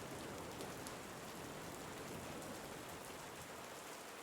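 Soft, steady rain ambience, an even hiss with faint scattered drop ticks.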